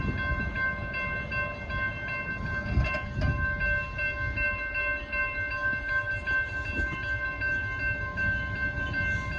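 Amtrak Texas Eagle passenger train approaching and passing with a low rumble. A steady, high ringing tone with overtones runs over it the whole time.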